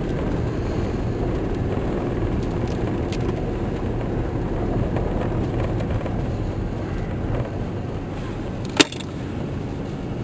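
Steady low rumble of a car's engine and tyres heard from inside the cabin while driving on a snowy road, with a single sharp click near the end.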